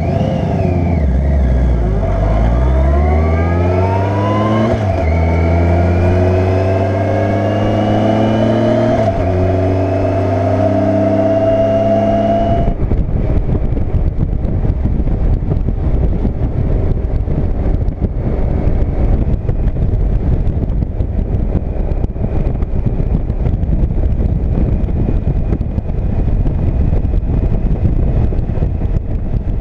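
Motorcycle engine accelerating through the gears, its pitch climbing and dropping back at two upshifts about 5 and 9 seconds in. About 13 seconds in it gives way abruptly to steady wind rush at speed.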